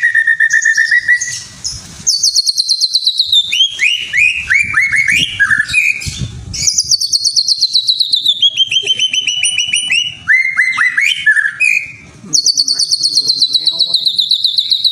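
Songbird singing long, very rapid trills, each run sliding down in pitch, alternating high trills with lower, choppier ones, with two short breaks, about a second and a half in and near twelve seconds. A lure song of the kind played to set cage birds singing and to teach them song material.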